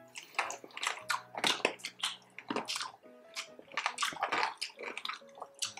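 Close-up chewing of crispy fried pork belly and rice: irregular crunches and wet mouth clicks, with faint music underneath.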